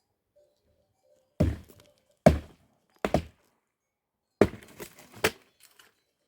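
Heavy blows on wood, about five thuds spaced irregularly over four seconds, as in chopping firewood.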